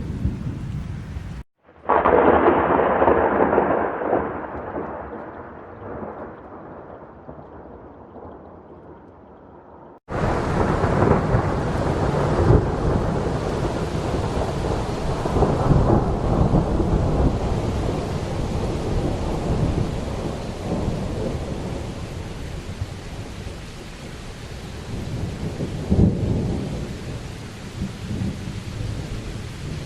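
Thunderstorm: a loud thunderclap about two seconds in rumbles away over several seconds, then after an abrupt cut, steady rain with rolling thunder rumbling on and off.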